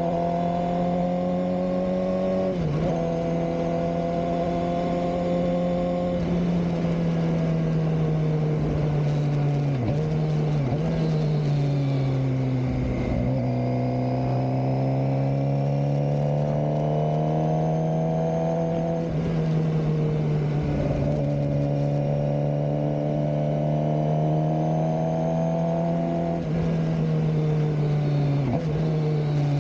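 Suzuki GSX-R600 K7's inline-four engine running under way at fairly steady revs. Its pitch briefly drops and recovers several times as the throttle is eased or gears are changed.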